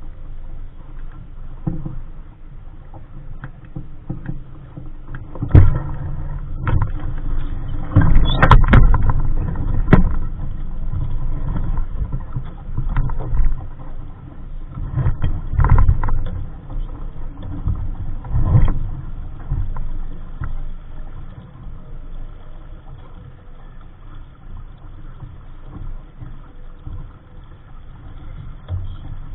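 Wind and water noise aboard a Capri Coronado 15 dinghy under sail: a steady low rumble with several louder sudden knocks and splashes from the hull in the first two-thirds, then steadier.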